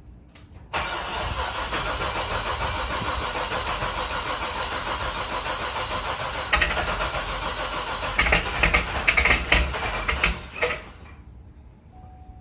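The C6 Z06's 7-litre LSX V8 is started from cold in sub-freezing air. The starter begins cranking abruptly in a steady rhythmic pulse. From about six seconds in, louder uneven firings break in, and the sound cuts off about eleven seconds in.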